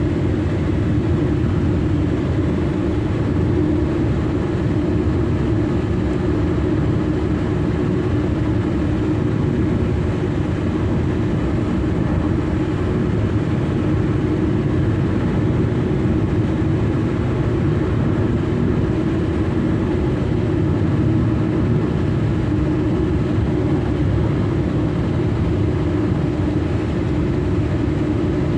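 A car being driven: steady engine and road noise with a constant drone, unchanging throughout.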